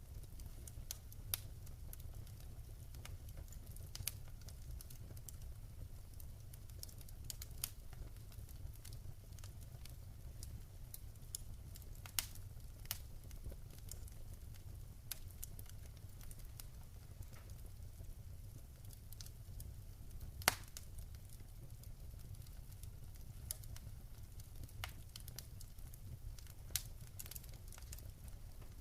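Wood fire burning in a fireplace: irregular sharp crackles and pops over a steady low rumble of the flames, with one louder pop about two-thirds of the way through.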